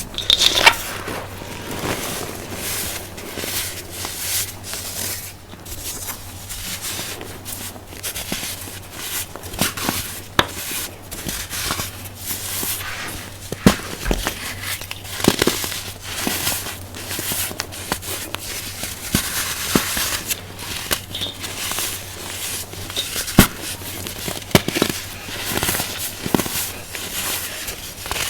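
Dried baking soda being crushed and crumbled by hand, giving a continuous dry crunching and crackling with sharper snaps here and there.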